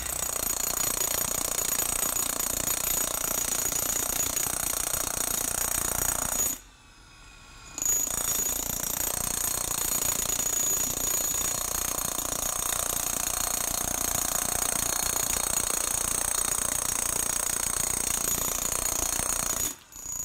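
Hilti electric breaker (demolition hammer) hammering steadily, stopping for about a second a third of the way in, then starting again and running until just before the end.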